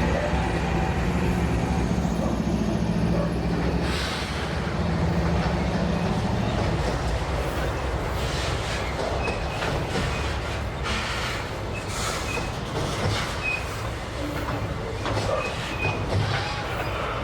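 Diesel-electric freight train passing close by: the locomotive's engine hum for the first several seconds, then freight wagons rolling past with wheel clatter over the rail joints and brief faint wheel squeals.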